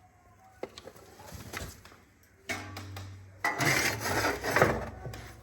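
Rubbing and scraping noises with a few knocks; the rubbing is loudest and roughest in the second half.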